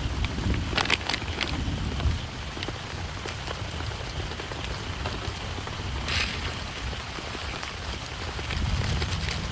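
Heavy rain falling on a tent, a steady pattering hiss over a low drumming, with scattered louder drops and a brief louder splash about six seconds in.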